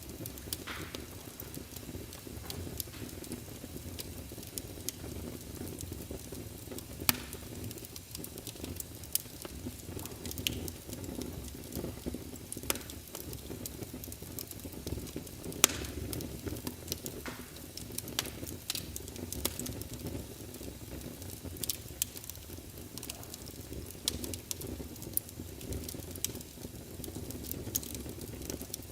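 Wood fire in a fireplace crackling: a steady low rumble of flames with irregular sharp pops, two louder ones about 7 and 15 seconds in.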